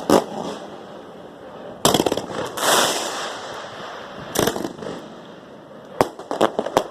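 Fireworks going off: single sharp bangs and quick clusters of pops, with a hissing, crackling stretch about three seconds in.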